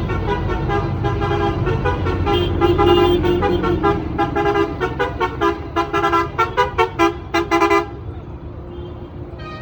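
Vehicle horn sounding over the low rumble of passing tractor engines, held at first and then in a run of quick short toots, about three a second, that stop suddenly a little past two thirds of the way in.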